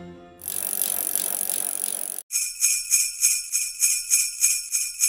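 Sleigh bells jingling: a bright continuous shimmer for about the first two seconds, then after a short break a steady rhythmic shaking, about three shakes a second.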